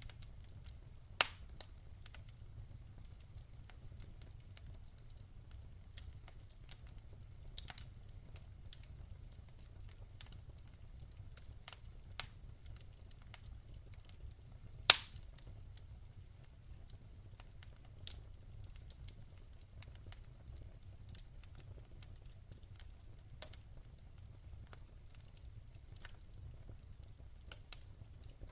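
Campfire crackling: scattered sharp pops and snaps from the burning wood, a loud one about a second in and the loudest about halfway, over a low steady rumble.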